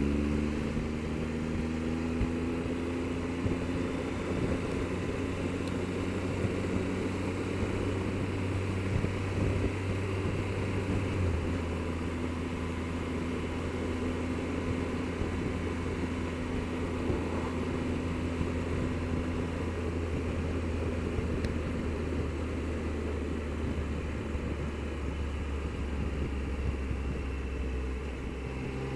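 Triumph Explorer motorcycle's three-cylinder engine running at a steady cruising speed, its note holding even, under a constant rush of wind noise.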